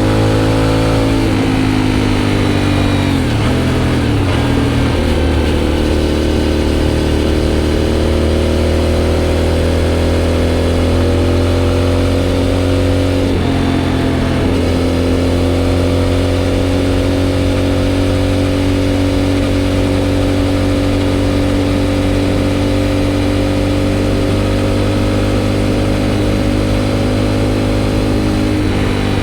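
Aprilia Shiver 750's V-twin engine through a GPR aftermarket exhaust, running at a steady cruise. The engine pitch dips briefly a couple of seconds in and again about halfway, then holds steady.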